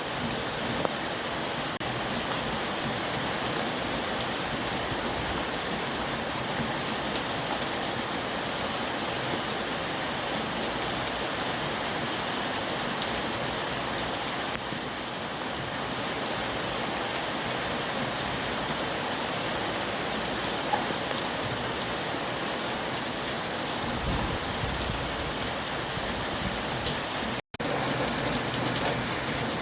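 Heavy rain falling steadily, with a low rumble underneath near the end. The sound cuts out for an instant shortly before the end and resumes slightly louder.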